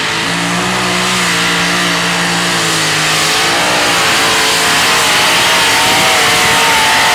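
Modified pulling tractor's engine running at full throttle under load as it drags the sled down the track. The pitch holds steady for the first few seconds, then wavers and climbs toward the end.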